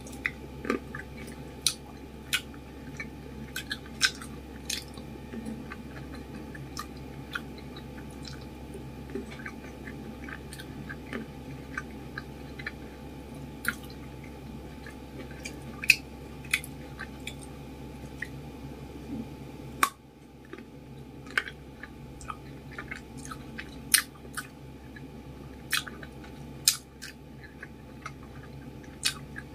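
Close-miked chewing of cherry tomatoes and cherries, with irregular wet mouth clicks and squishes and a few sharper pops.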